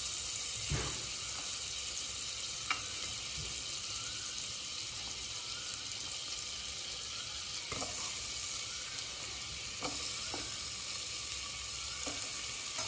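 Butter sizzling steadily in a hot pressure cooker as garlic cloves and chopped onion are dropped in, with a few light knocks of pieces landing in the pan.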